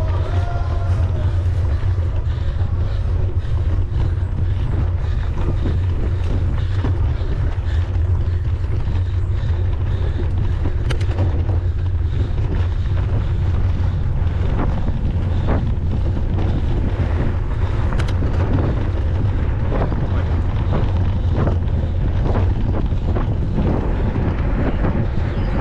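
Wind buffeting the microphone of a camera riding on a mountain bike, a steady low rumble, with scattered clicks and rattles from the bike running over the trail.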